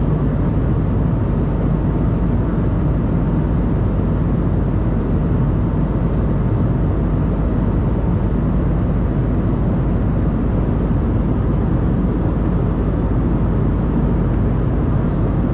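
Steady cabin noise inside an Embraer E190-E2 in flight: an even, deep rush of airflow and engine noise from its Pratt & Whitney PW1900G geared turbofans, with a faint steady whine.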